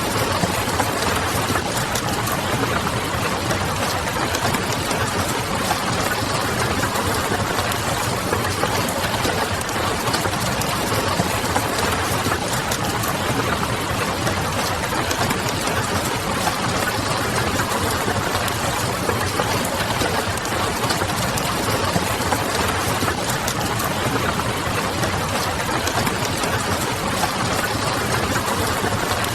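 Steady rain with the light crackle of a wood fire in the fireplace, over a low distant city hum.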